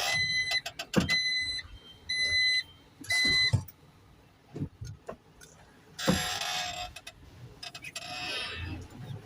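Truck reversing warning beeper sounding four steady beeps about once a second, then stopping. Two bursts of hiss follow a few seconds later.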